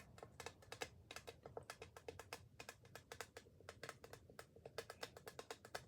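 Rapid, irregular light clicking and tapping, several clicks a second, which stops near the end.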